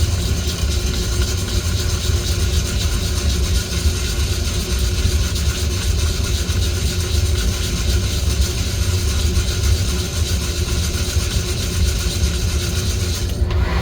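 Coffee-roasting equipment running: a steady, loud rushing noise over a low rumble, with no pauses.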